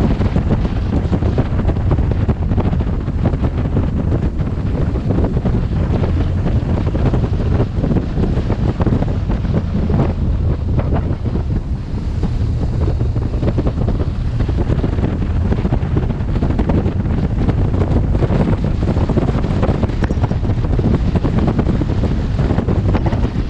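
Wind buffeting the microphone of a helmet-mounted camera on a moving motorcycle: a steady, loud, low rumble with no break.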